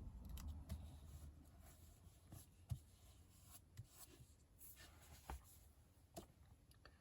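Near silence with faint handling of paper and craft supplies: a soft rub and a few light, scattered taps and ticks.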